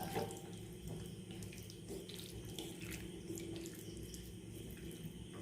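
Raw chicken pieces being mixed with yogurt and red chili powder: faint wet squishing with many small irregular clicks.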